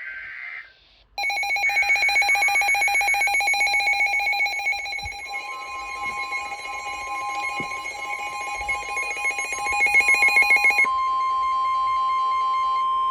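Electronic emergency alert alarms: a loud, rapidly pulsing multi-tone alarm, joined about five seconds in by the steady single-pitch NOAA Weather Radio warning tone. The pulsing stops near eleven seconds and the warning tone carries on alone, announcing a severe thunderstorm warning.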